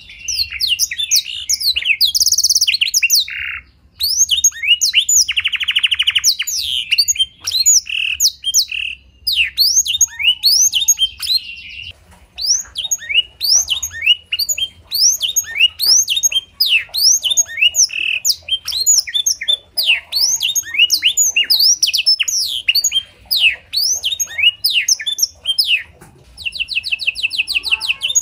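Domestic canary singing a long, fast song of sharp downward-slurred whistles, with a few buzzy trills in the first several seconds. The song is a canary's, filled with phrases copied from the blackthroat (black-throated canary).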